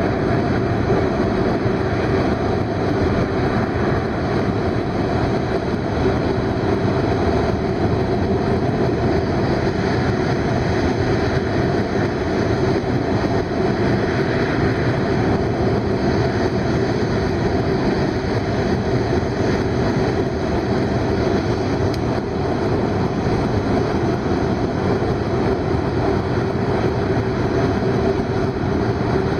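Steady running noise of a Hokuriku Shinkansen E7/W7-series train at speed, heard from inside the passenger cabin: a continuous rumble and rush with a steady low hum.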